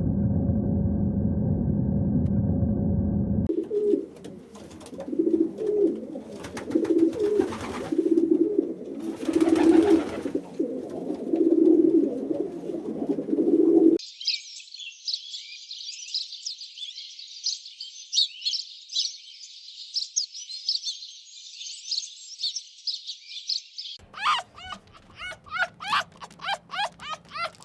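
A run of different bird calls. It opens with a few seconds of low steady rumble, then comes a series of low repeated coos, then about ten seconds of dense high chirping. Rapid, repeated higher calls start near the end.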